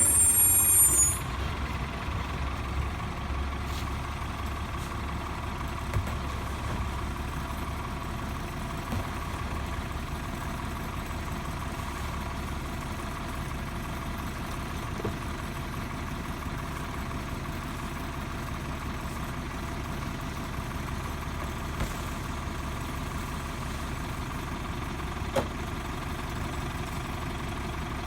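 Heil Multi Pack rear-loader garbage truck idling steadily. A high squeal cuts off about a second in, and a few faint clicks and knocks sound over the idle.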